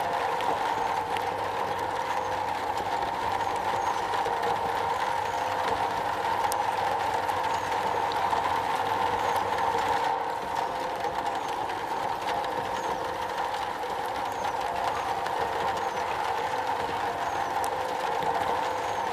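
Steady rain drumming on a metal roof, an even rushing patter with a dense band in the middle range and scattered fine ticks.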